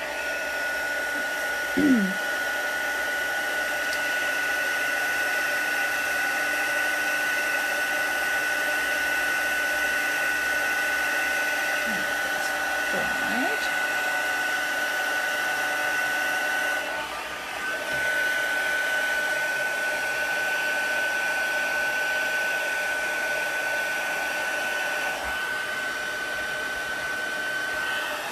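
Craft heat gun blowing steadily with a high whine, drying wet watercolour ink on a card. It dips briefly about two-thirds of the way through, then carries on.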